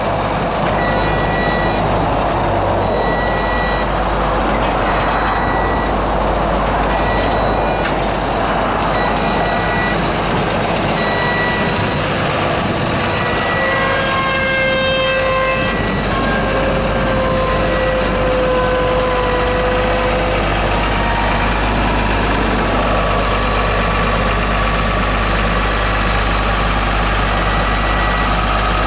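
Cat AP655D asphalt paver's Cat C6.6 diesel engine running with a steady low hum, while a backup alarm beeps about once a second. In the middle a whine sounds for several seconds, falling slightly in pitch.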